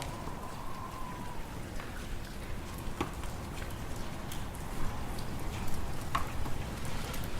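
Wood fire crackling in a fireplace with scattered sharp pops, over a low, steady rumble of wind. A faint high whistle fades out about a second and a half in.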